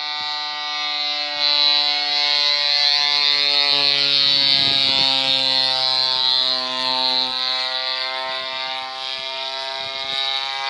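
Two-stroke brush-cutter engine of a homemade fixed-wing model plane running at high throttle, a steady buzzing drone whose pitch drifts slightly up and down.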